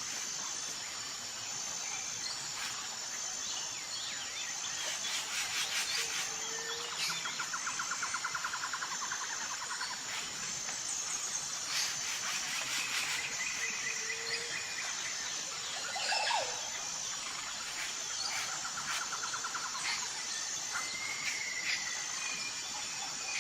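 Tropical forest ambience: a steady, high, pulsing insect drone with rattling trills, scattered bird chirps and calls, and a short low call that recurs every few seconds.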